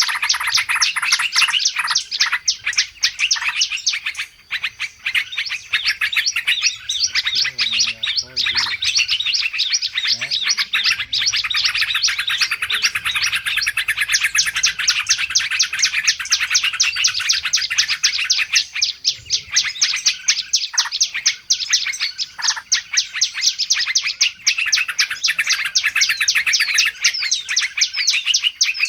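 A dense, unbroken chorus of many small birds chirping rapidly and excitedly: a bird-lure recording of agitated 'ribut' chatter used to attract wild birds.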